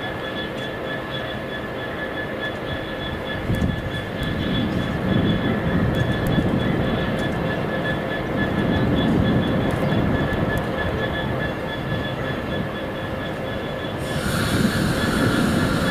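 Freight train rolling past at trackside: a rumble of wagons with a steady high-pitched wheel squeal and light clicks of wheels over rail joints. It grows louder and harsher near the end.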